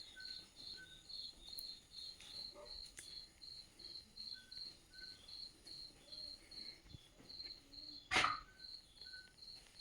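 An insect chirping steadily in a fast, even rhythm of high short chirps, about three a second. A single sharp click or knock about eight seconds in is the loudest sound.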